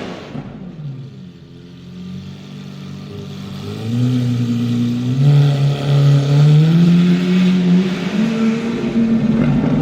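Lamborghini Aventador SV's V12 engine running through an aftermarket Sterling Performance exhaust, quiet at first, then loud about four seconds in, its pitch climbing in steps as the car accelerates.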